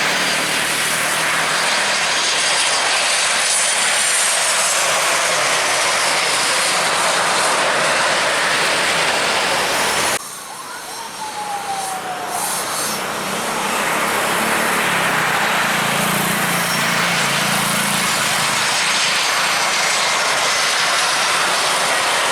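Jet airliner engines, loud, with faint high whines that fall in pitch. About ten seconds in the sound cuts suddenly to a quieter stretch with a falling whine, then the engine noise builds again to full loudness.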